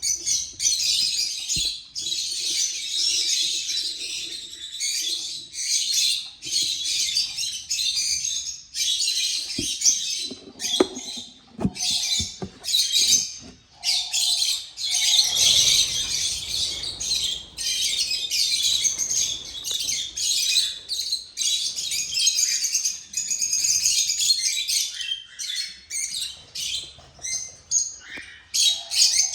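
A flock of small cage birds chirping continuously, many calls overlapping, with a few short knocks around the middle.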